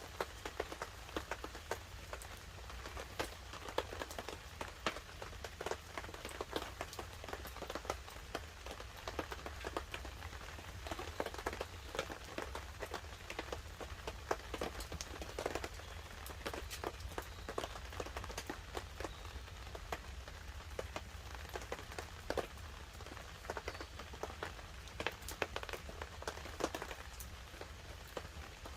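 Light rain pattering on a tarp together with a wood fire crackling: dense, irregular sharp ticks and pops over a steady low rumble.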